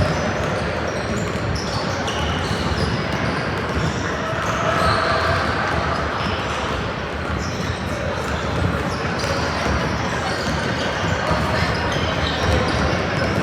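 Indoor youth basketball game: a ball bouncing on a hardwood court, many short, high-pitched sneaker squeaks, and a constant murmur of voices from players and spectators echoing in the gym.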